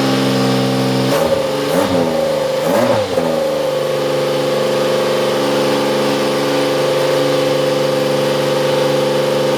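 Ford 1.5-litre V6 turbo F1 engine of a Beatrice Lola THL2 idling, then given three quick throttle blips about a second in. It settles back into a steady idle.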